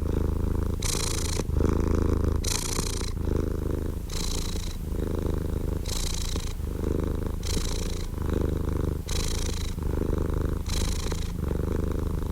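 Domestic cat purring steadily and close up, the purr swelling with each breath about every second and a half.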